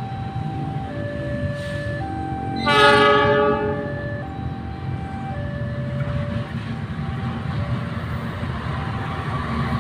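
Level-crossing warning alarm sounding two tones in alternation, with a locomotive horn blowing for about a second and a half about 3 s in, over the low rumble of an approaching train.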